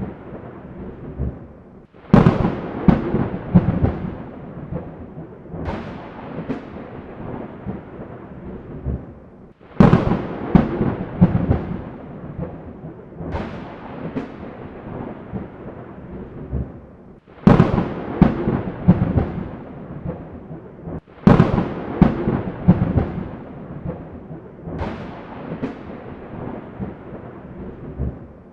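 Thunder in a rainstorm. Four sharp thunderclaps come at about 2, 10, 17 and 21 seconds, each rolling off into a long rumble. Softer rumbles fall between them over a steady rain hiss.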